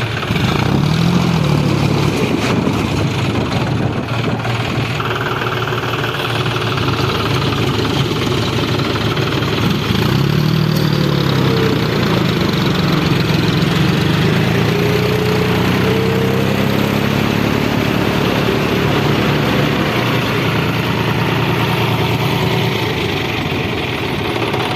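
Tractor engine running steadily while the tractor is stuck in black-soil mud. It revs up and back down about a second in and again about ten seconds in.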